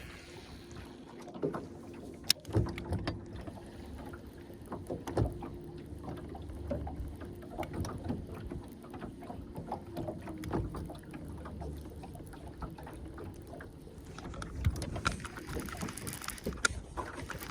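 Jon boat afloat on a pond: scattered light knocks and clicks over a low rumble, with a faint steady hum through roughly the first ten seconds.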